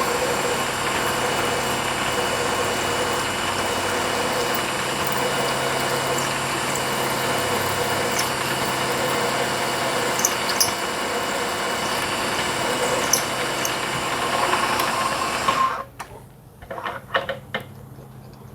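ProtoTrak CNC mill spindle running as a drill cuts a hole through an aluminum plate: a steady whine with a few sharp ticks. It shuts off abruptly about three-quarters of the way through, leaving a few light clicks.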